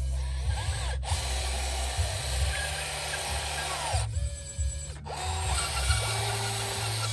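Small electric motors and gearboxes of radio-controlled construction models whining, rising and falling in pitch as they speed up and slow down, with short breaks about a second in and around four seconds in.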